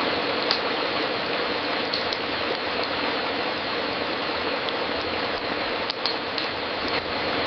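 Wood fire crackling in a fireplace: a steady hiss of fine crackle with a few sharper pops scattered through it.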